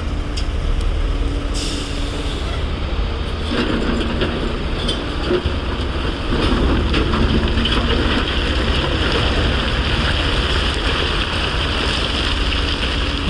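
Heavy earthmoving machinery running, an excavator and dump truck, with a steady deep rumble and a short hiss about two seconds in.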